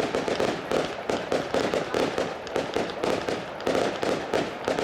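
Fireworks display: a rapid, continuous series of bangs and bursts, several a second.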